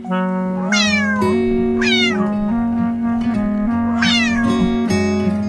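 Cat meowing three times over soft acoustic-guitar background music, each meow falling in pitch, about a second apart and then again about two seconds later.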